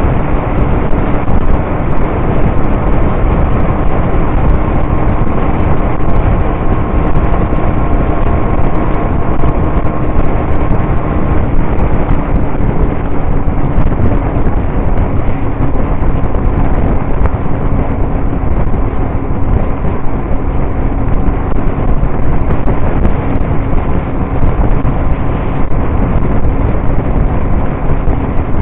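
Motorcycle engine droning at steady cruising speed, with heavy wind rush on the microphone. A faint steady engine tone runs under the wind noise.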